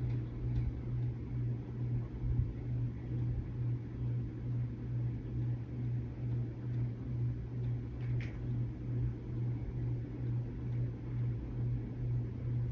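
A steady low mechanical hum, pulsing evenly about twice a second, with a faint tick about eight seconds in.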